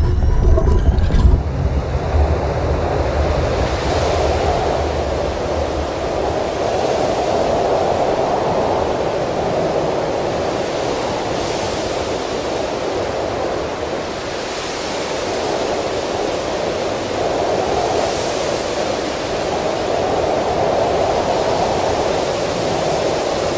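Wind sound effect, a loud rushing that swells and eases every few seconds, with a low rumble under it fading away in the first few seconds.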